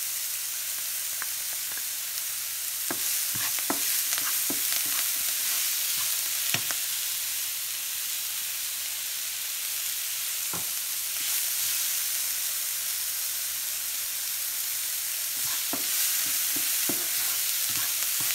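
Chopped shallots, green chilies, ginger and garlic sizzling in coconut oil in a nonstick frying pan, steadily, while a wooden spatula stirs them, scraping and tapping against the pan now and then.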